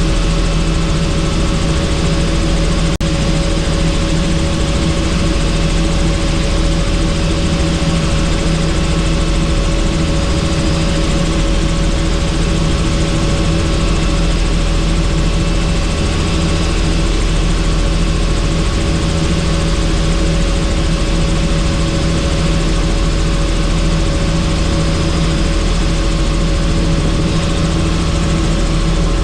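Helicopter in flight heard from on board: a steady, unchanging drone of rotor and engine with several fixed hum tones, under a dense rush of air noise.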